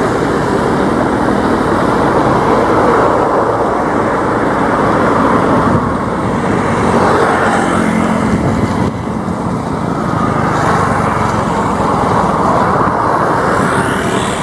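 Light propeller planes' piston engines droning steadily in flight, with faint tones that slide in pitch as the planes pass.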